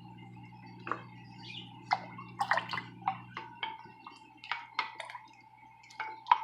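Cucumber slices dropping one after another into a container of water, about a dozen short plops at uneven intervals. A faint steady hum runs underneath.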